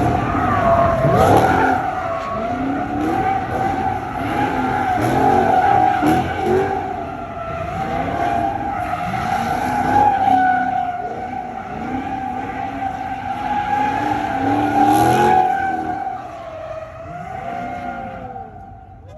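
Car tires squealing continuously during doughnuts or a burnout, while the engine revs up and down underneath. The squeal holds for most of the stretch, then dies away near the end as the car slows.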